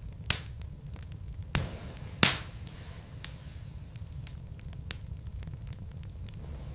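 Wood burning in a fireplace, crackling with scattered sharp pops over a low steady rumble. The loudest pop comes a little over two seconds in.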